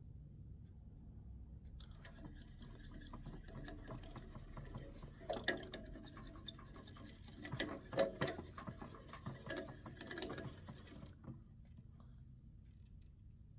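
Scratchy rubbing of a wax finish being scrubbed into a turned walnut wand, with a few sharp clicks and knocks, over a steady low hum. The rubbing starts about two seconds in and stops near the end.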